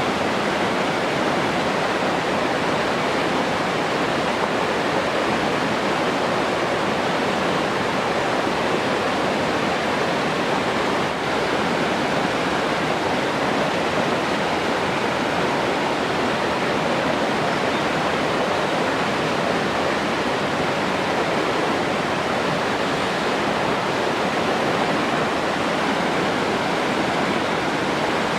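Steady, unbroken rush of flowing water, with no changes or distinct events.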